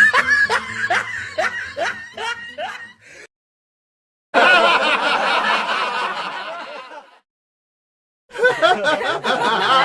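Laughter sound effects. First one person laughs in a run of evenly spaced, falling 'ha's. Then two short clips of many voices laughing together follow, each cut off cleanly with silence between them.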